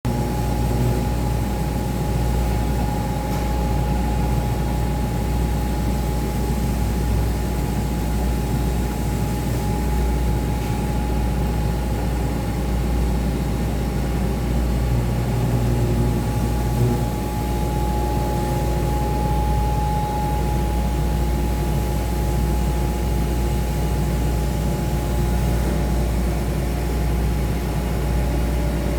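Milling machine for scoliosis braces running steadily: a constant low hum with a steady high tone over an even noise of the cutting.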